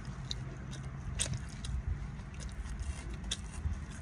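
A person chewing and smacking their lips close to the microphone: soft wet mouth sounds with a few short sharp clicks scattered through.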